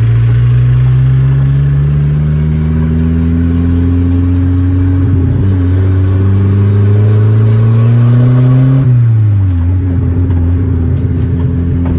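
Turbocharged 1.6 engine of a Chevrolet Corsa pickup accelerating, its pitch climbing through one gear, dipping briefly at a shift about five seconds in, climbing again, then falling away as the throttle is lifted about nine seconds in and running steadily after.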